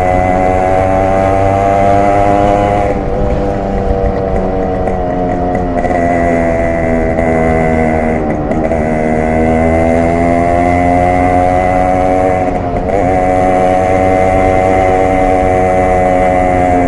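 Yamaha RX100's two-stroke single-cylinder engine and exhaust pulling under way, its note climbing steadily. The revs dip and pick back up three times, at about three, eight and a half and thirteen seconds in, as it shifts up through the gears.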